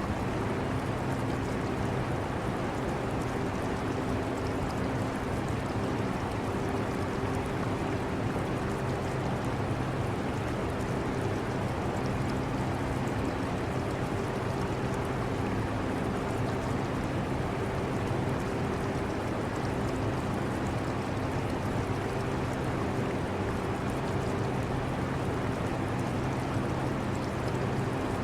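Air conditioner running with a steady rush of air and a steady low hum, mixed with the flowing, trickling water of an aquarium.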